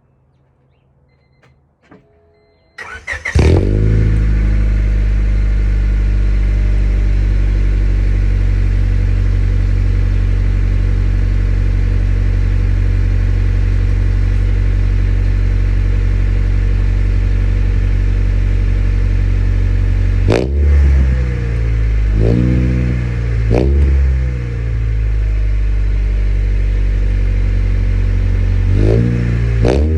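Honda Civic with a new exhaust cold-started: a brief crank about three seconds in, then the engine catches and idles steadily. About twenty seconds in come three quick throttle blips, and another comes near the end.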